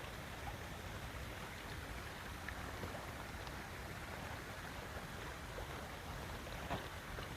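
Steady rush of a flowing stream, with a few faint ticks and a brief click near the end.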